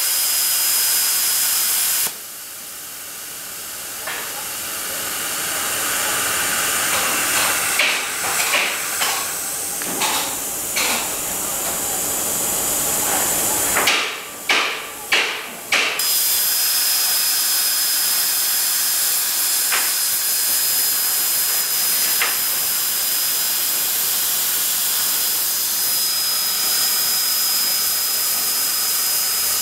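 CNC plasma cutting torch hissing steadily as it cuts. In the middle comes a run of sharp crackles and a few brief cut-outs, then the steady hiss returns with a thin high whine over it.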